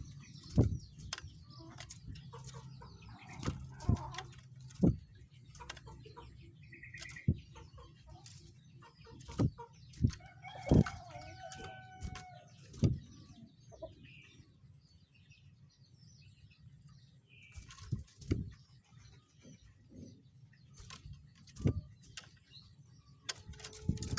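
Sharp knocks and taps, one every second or two, among faint short bird chirps, with one longer pitched bird call about eleven seconds in. A steady high-pitched whine and a low hum run underneath.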